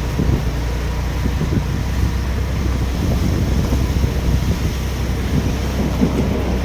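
Wind buffeting the microphone: a steady low rumble with uneven gusts.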